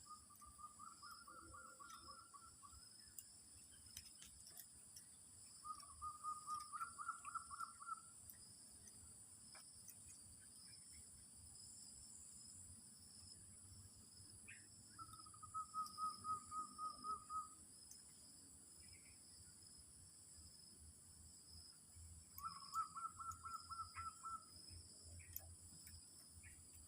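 Zebra dove (merbok) cooing: four bouts of rapid staccato coos, each about two seconds long, over a steady high chirring of insects.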